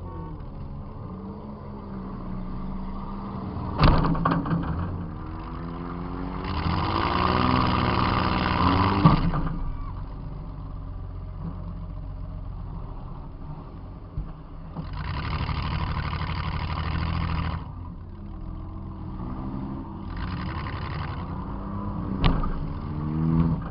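Demolition derby car's engine heard from inside the car, revving up and down again and again, with stretches of loud rushing noise. Two hard crashes of metal on metal, about four seconds in and near the end.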